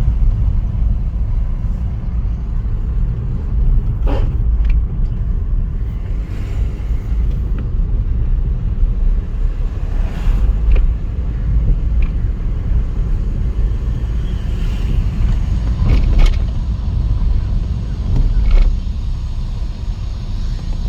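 2015 Ford Figo 1.5 diesel running with a steady low rumble, broken by short harsh noises about four times, a few seconds apart. These fit the gearbox grinding as second gear is engaged, the fault the owner is showing.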